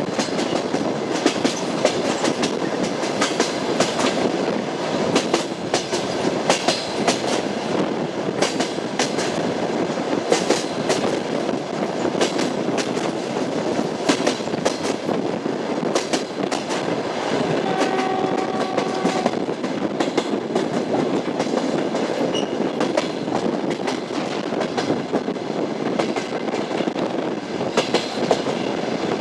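Train running on rails, its wheels clattering over the rail joints with frequent sharp clicks over a steady rumble. A brief steady tone sounds for about a second and a half, two thirds of the way in.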